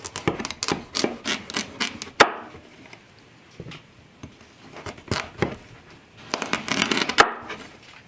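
Food-preparation handling sounds: three bursts of quick scraping and knocking strokes, the loudest a sharp knock a little over two seconds in.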